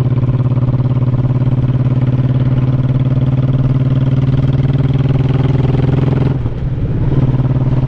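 Honda Shadow 1100 V-twin motorcycle engine running under way, its pitch climbing slowly. About six and a half seconds in it dips briefly, then picks back up.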